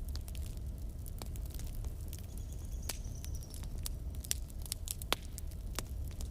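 Wood fire burning in a fireplace, with irregular sharp crackles and pops over a steady low rumble of the flames. A faint high whistle rises out of it about two seconds in and fades a second later.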